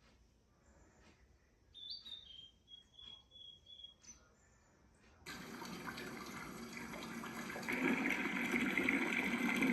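Quiet at first, with a few faint high chirps; about five seconds in, a steady rush of falling rain starts abruptly and grows louder near the end.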